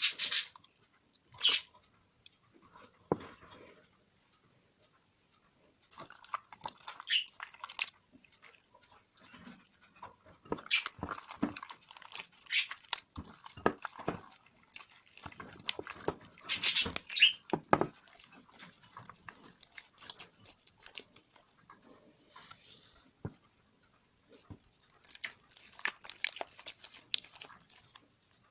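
Homemade glue-and-borax slime being squeezed, stretched and mixed by hand, giving irregular wet clicks, pops and squelches. The mix never set properly.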